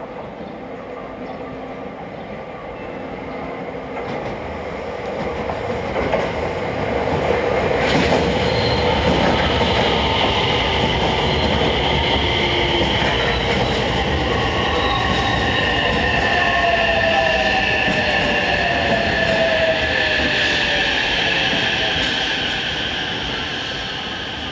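Electric multiple-unit train running along the station track past the platform. It grows loud over the first several seconds, stays loud with a high, slowly falling squeal, then fades near the end.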